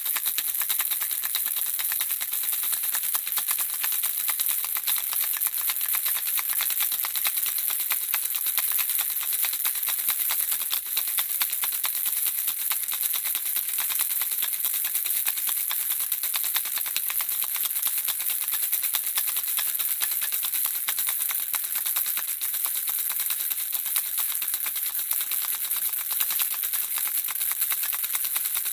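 Baby rattle shaken without pause: a dense, steady clatter of small beads or pellets inside it, mostly high and hissy.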